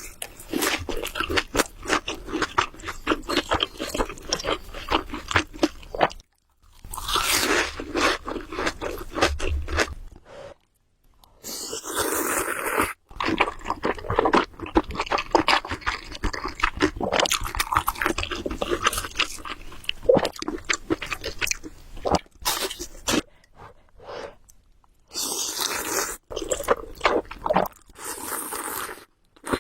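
Close-miked eating of Samyang Buldak carbonara noodles: continuous chewing with many small wet clicks and crackles, broken by a few brief pauses, with several louder, hissier stretches around the middle and near the end.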